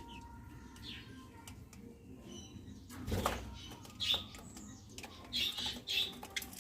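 Pet budgerigars chirping in short, high calls, with a brief rustling burst about three seconds in.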